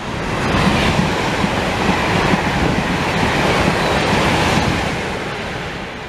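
A train passing close by on the line, a dense rushing rumble of wheels on rail. It swells over the first second, holds strong, then fades away in the last second or two.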